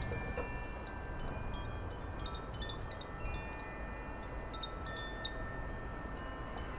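Wind chimes ringing, several long tones at different pitches overlapping and fading, with light high pings, over a steady low rumble.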